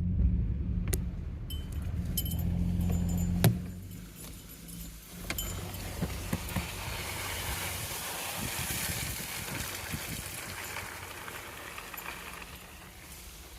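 A vehicle travelling a dirt two-track: a low engine rumble for the first few seconds with a few sharp knocks and rattles, then a steady rushing noise of tyres and brush.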